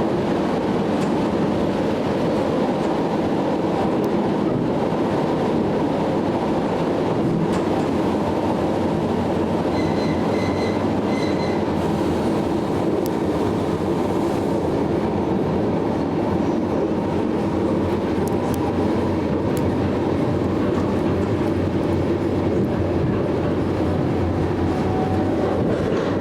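Electric commuter train running steadily, a continuous rumble of wheels and traction equipment, with a few short high beeps about ten seconds in.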